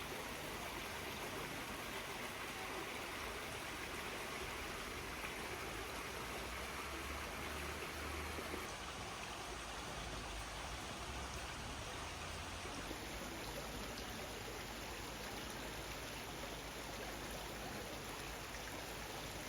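Steady, even rush of running water, like a stream.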